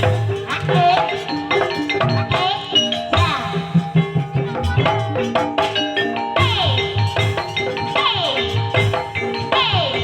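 Banyumasan gamelan music in campursari style playing for an ebeg dance: struck metallophone notes over a steady beat of low drum strokes, with repeated falling glides in the second half.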